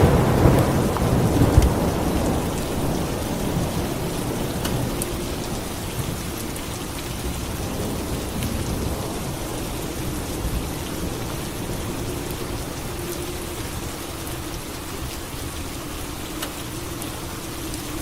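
Steady rain with a clap of thunder right at the start that rumbles and fades over the next couple of seconds.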